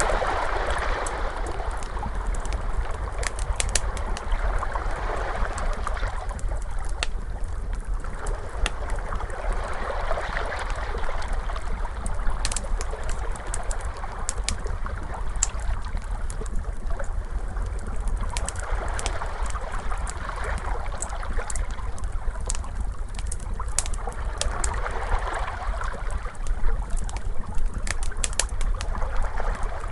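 Ocean waves swelling and washing in every several seconds, mixed with a crackling fire whose sharp pops and snaps come scattered throughout, over a steady low rumble.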